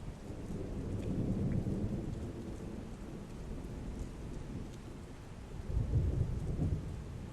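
Heavy rain falling steadily while thunder rumbles low, swelling about a second in and again more strongly around six seconds in.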